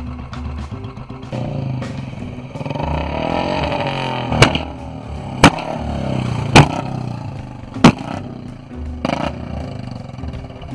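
Royal Enfield Bullet's single-cylinder engine revved up through a hollow aftermarket exhaust, then four sharp, loud backfire bangs about a second apart and a weaker one after. These are the 'pataka' firecracker pops made by cutting the fuel or ignition at high revs and switching it back on. Background music with a low beat runs underneath.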